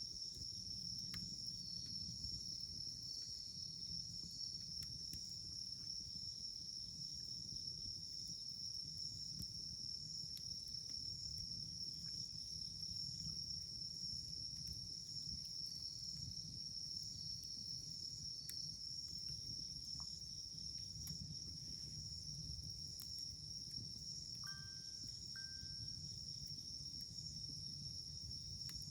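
A steady, shrill chorus of insects, likely crickets, runs under a burning wood campfire. The fire gives a low rumble and scattered small crackling pops.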